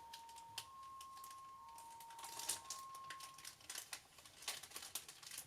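Faint electronic two-tone alarm, a steady beep that switches between two close pitches about once a second and stops about three and a half seconds in. Scattered light clicks and rustles sound alongside it.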